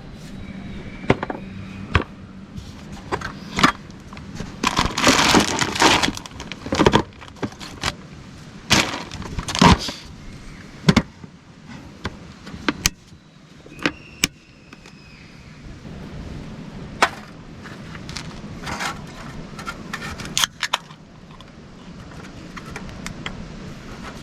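Camping gear being handled: a string of sharp clinks and knocks, with two longer bursts of rustling about five and nine seconds in.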